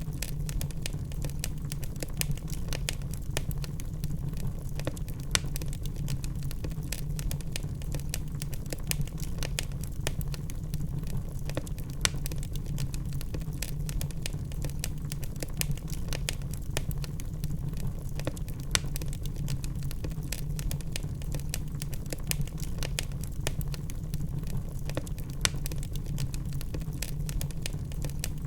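Wood fire burning in a fireplace: frequent sharp crackles and pops at irregular intervals over a steady low rumble of the flames.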